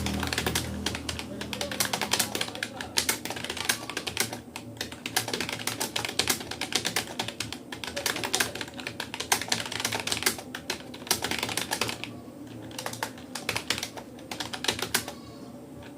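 Rapoo computer keyboard typed on rapidly in an alphabet, space and enter drill, a fast run of key clicks. The keystrokes thin out after about twelve seconds and stop a few seconds later.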